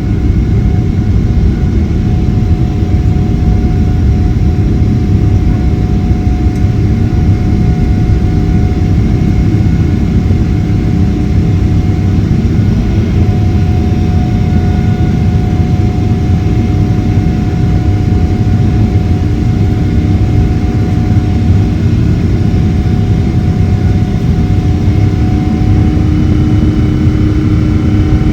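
Boeing 777-300ER's GE90-115B turbofan engines at high thrust in the climb after takeoff, heard from inside the cabin: a loud, steady low rumble with several steady whining tones over it. Near the end one of the lower tones grows louder.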